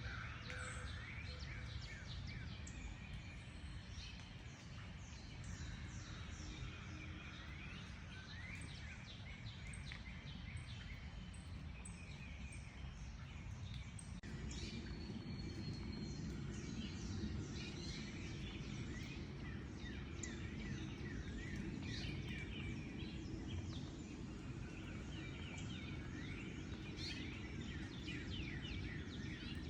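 A chorus of several birds chirping and singing, many short sweeping calls overlapping, over a steady low background rumble that grows louder about halfway through.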